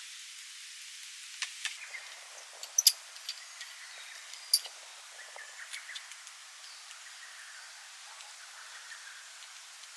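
A few sharp clicks and light clinks, two of them ringing briefly and high, clustered in the first half, over a steady outdoor hiss.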